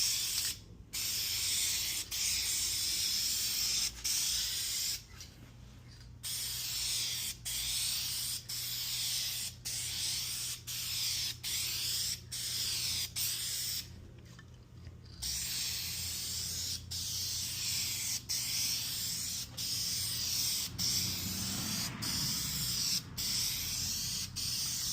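Aerosol spray-paint can spraying in repeated passes about a second long, each broken off by a short gap, with two longer pauses of about a second.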